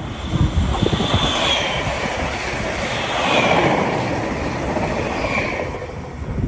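A train running past on the track, with loud rail and wheel rumble, a few low thumps in the first second, and faint high whines that rise and fall above the noise.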